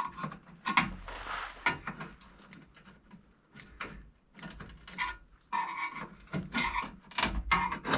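Thin sheet steel being handled and fitted by hand: irregular knocks, clicks and metal scraping, with a scrape about a second in and a busier run of knocking and rubbing near the end.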